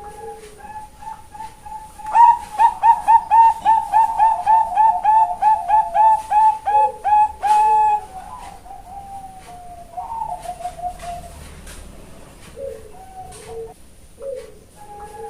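Female zebra dove (Bangkok-strain perkutut) cooing. Soft coos open, then about two seconds in comes a fast run of loud, clipped coo notes, roughly three a second for about six seconds. A quieter rolling trill of notes follows, and soft low coos return near the end.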